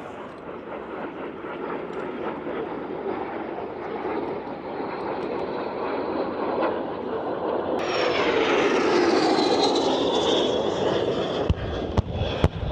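Jet aircraft flying past, growing steadily louder and peaking about eight seconds in, its pitch falling as it goes by. A few sharp knocks near the end.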